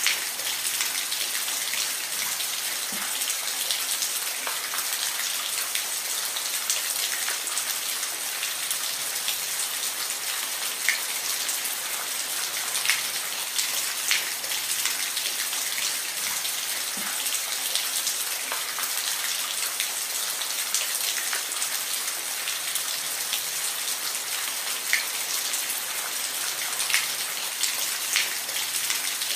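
Steady rain falling, a constant hiss with scattered louder individual drops ticking on a nearby surface.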